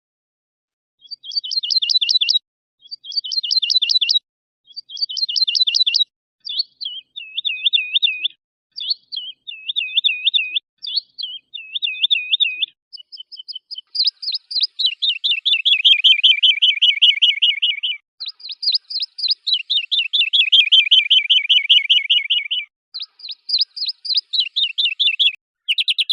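Songbird singing a series of short trilled phrases, each repeated a few times, then long rapid trills from about halfway through. It is a cleaned-up recording: dead silence between the phrases.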